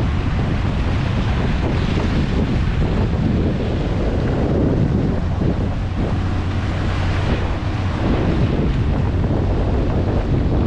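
Vehicle on the move: a steady low engine drone under heavy wind and road noise buffeting the microphone.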